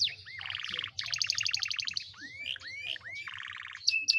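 Domestic canary singing a varied tutored song: fast rolling trills of repeated notes alternating with rising whistled notes, with a run of short high notes near the end.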